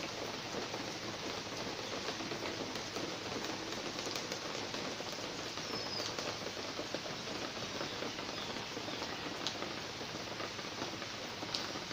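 Steady rain falling, an even hiss of drops, with an occasional single louder drip.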